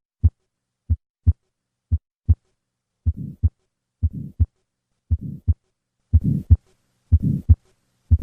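Recorded heart sounds at about one beat a second: a few clean lub-dub pairs, then from about three seconds in a murmur fills the gap between the two sounds, growing longer and louder about six seconds in. These are the combined murmurs of pulmonic stenosis and pulmonic regurgitation.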